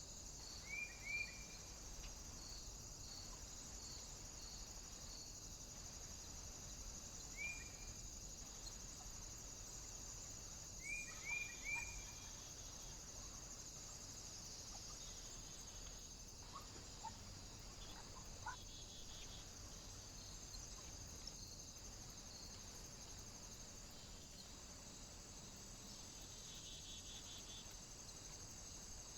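Small birds calling with short, sharp chirps: two about a second in, one more a few seconds later, and three in quick succession near the middle, with a few fainter calls after. A steady high hiss runs underneath.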